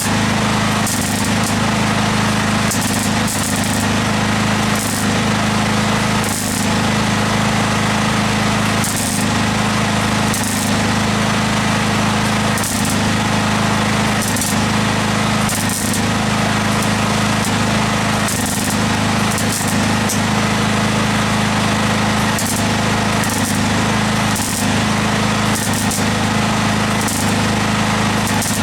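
Electric welding on car bodywork: a continuous crackling arc over a steady low electrical hum, with brief brighter flares every second or two.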